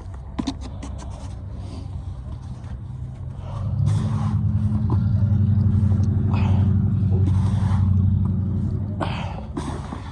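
A vehicle engine running close by, building up about three and a half seconds in, holding steady for about five seconds, then fading away. A few sharp knocks near the start.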